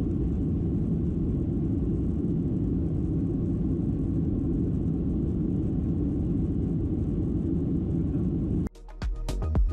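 Cabin noise of a Boeing 737-700 airliner: the steady low rumble of engines and airflow. It cuts off abruptly near the end, and music with a beat takes over.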